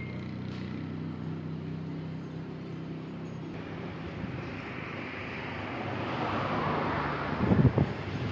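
Tractor engine running steadily. About five seconds in a rush of noise swells, and a few heavy thumps come near the end.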